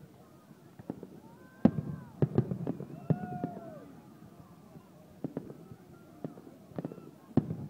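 Aerial fireworks shells bursting in a string of sharp bangs and crackles. The loudest bang comes about a second and a half in, followed by a quick cluster, then more bangs near the end.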